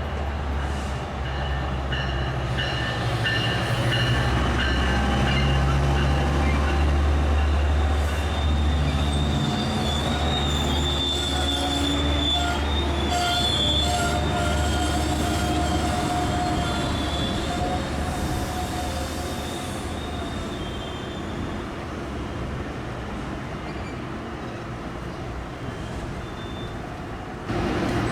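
Metrolink commuter train led by an F125 diesel-electric locomotive passing by. The locomotive's diesel engine is a steady low hum that fades over the second half. High-pitched wheel squeal rises and falls in the middle of the pass.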